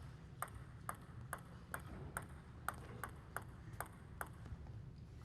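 Celluloid-free plastic table tennis ball bouncing repeatedly at an even pace, a little over two short pings a second, over faint arena background noise.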